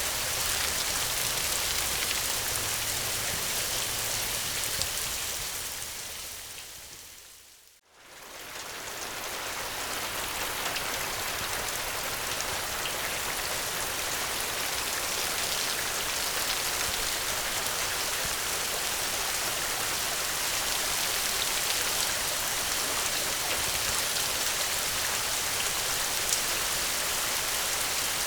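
Steady rain, with a low rumble under it in the first few seconds. About eight seconds in, the rain fades smoothly down to near silence and then swells back up to full.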